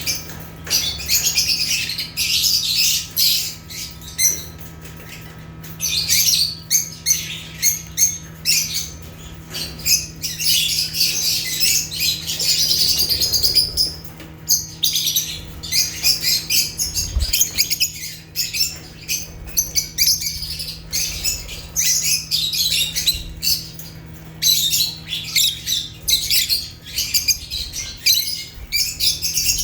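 Lovebirds (Agapornis) chattering: rapid, high-pitched chirps and squawks from several birds, almost without pause, with a few brief lulls.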